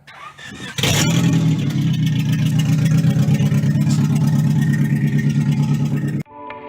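Car engine started through a newly fitted aftermarket exhaust: it catches under a second in with a sudden loud burst, then runs at a loud, steady idle. It cuts off abruptly near the end.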